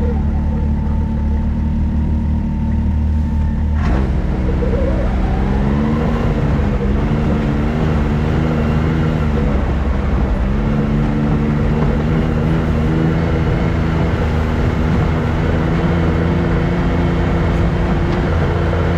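Can-Am X3 side-by-side's engine under way on a trail, its pitch rising and falling with the throttle: it climbs after a sharp click about four seconds in, dips around ten seconds, then builds again.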